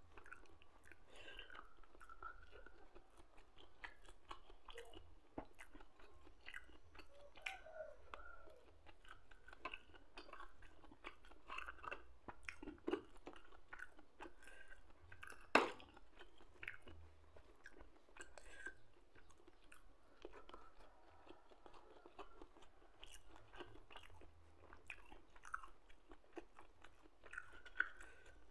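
Close-up sounds of a person eating by hand: soft wet chewing with scattered small clicks and crunches. One sharper click about halfway through is the loudest sound.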